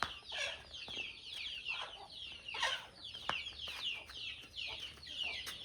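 Chickens calling: a steady stream of many short, high-pitched calls, each falling in pitch and overlapping one another, with a few faint clicks among them.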